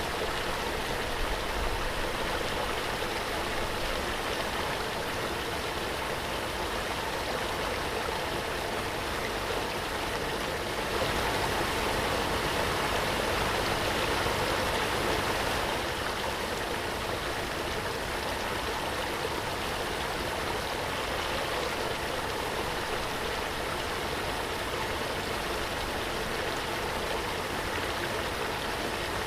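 Waterfall: a steady rush of falling water with no breaks, swelling slightly for a few seconds near the middle.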